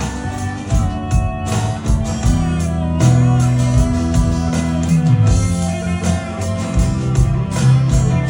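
Live rock band playing: electric guitar over sustained bass notes, with regular drum hits.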